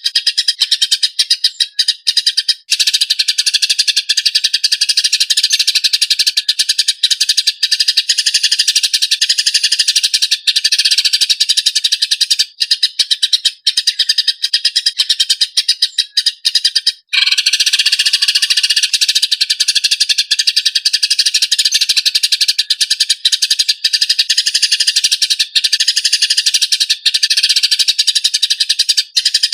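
Eurasian tree sparrows giving fighting calls: harsh, fast, tightly packed chirps and chatter, almost unbroken, with a momentary break about 17 seconds in.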